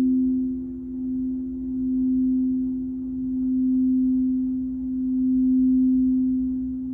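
Crystal singing bowls sounding a sustained, pure low tone with a fainter second tone just above it, swelling and fading in slow waves about every one and a half to two seconds.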